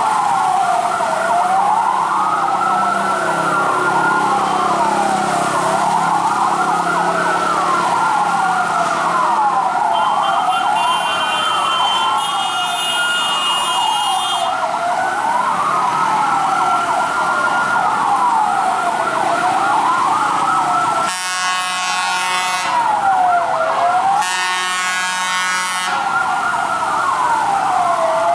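Several fire truck sirens wailing at once, their overlapping tones rising and falling about every two seconds. A horn sounds twice over them, around the middle and again for several seconds later on.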